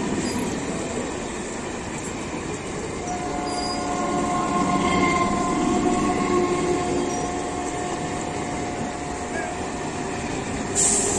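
Electric multiple unit (EMU) suburban train running past at close range, its wheels rumbling on the rails. From a few seconds in, a steady high whine rides over the rumble.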